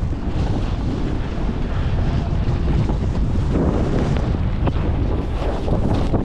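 Wind buffeting the microphone in a steady, loud low rumble, with a few faint clicks through it.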